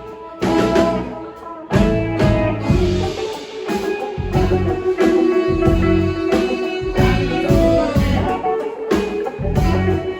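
Live band playing an instrumental passage, with guitar out front over a pulsing low end. The sound thins out briefly at first, and the full band comes back in at about two seconds.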